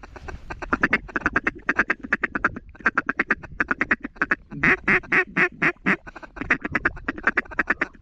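Rapid strings of loud duck quacks, several short quacks a second in runs. Near the middle comes a run of longer, lower quacks.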